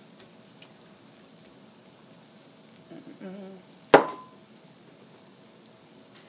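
Faint, steady sizzle of rolled tacos frying on a flattop griddle. About four seconds in there is a single sharp knock with a brief metallic ring.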